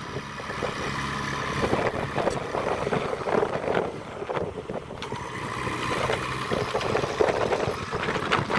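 Heavy diesel earthmoving machinery at work, with an uneven clatter of knocks and clanks over a rough engine noise.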